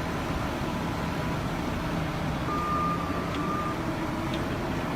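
A heavy vehicle's engine runs steadily. About halfway, a high electronic beep sounds once for a little over a second.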